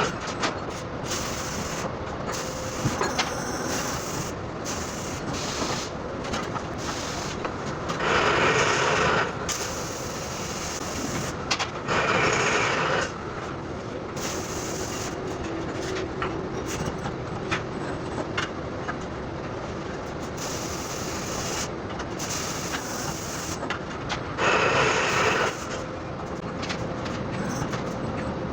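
CNC sheet-metal bending machine running with a steady mechanical hum, broken three times by louder bursts of about a second each as it works through bending cycles.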